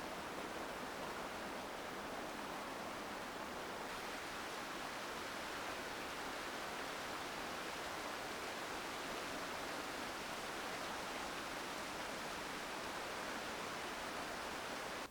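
Steady rushing of a mountain stream, an even wash of running water that cuts off suddenly at the end.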